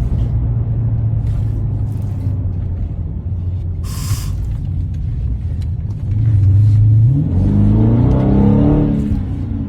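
Dodge Hellcat's supercharged V8 under way with a steady low drone. About six seconds in it gets louder and rises in pitch as the car accelerates hard, then eases off near the end. There is a brief hiss about four seconds in.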